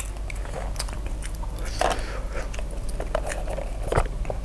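Close-miked mouth sounds of a person chewing food, with scattered short clicks and smacks.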